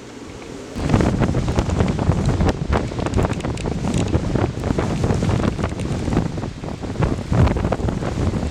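Strong storm wind buffeting the microphone in irregular gusts, rising sharply about a second in and staying loud and rough.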